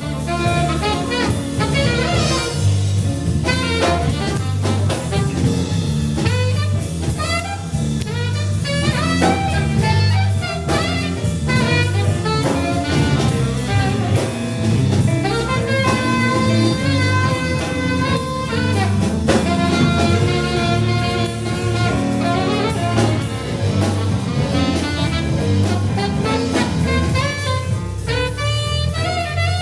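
Instrumental jazz played by a live band: a saxophone carries the melody over drum kit and bass.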